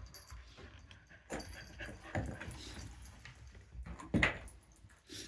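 Dogs tussling over small catnip-ball toys, giving a few short dog noises. The loudest comes about four seconds in.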